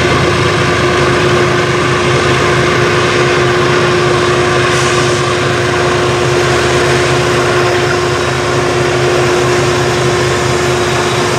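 A train running close by: a steady loud rumble with a constant hum over it.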